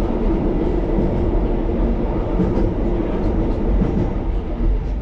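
1938 Tube Stock underground train running along the track: a steady low rumble of wheels and motors with a hum and faint clicks.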